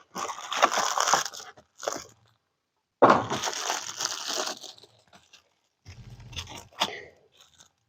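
Rustling and crinkling of parts packaging being handled, in two stretches of about two seconds each, with a few light clicks near the end.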